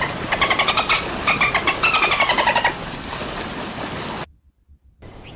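Dolphin calling: a fast run of short squeaky pulses, about seven a second, with a falling whistle near the end of the run, which stops about three seconds in.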